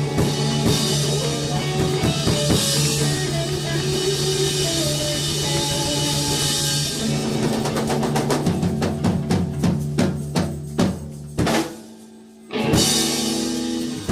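Live band with drum kit ending a song: guitar and bass notes held over a run of drum hits that comes faster, a brief drop, then one last full-band hit left to ring out.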